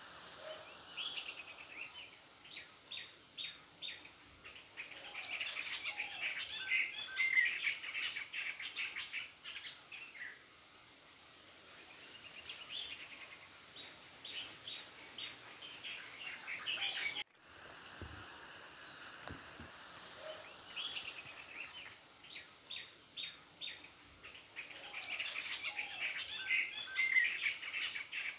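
Small birds chirping and singing in rapid trills of short chirps. After a brief dropout a little past halfway, the same run of birdsong plays again.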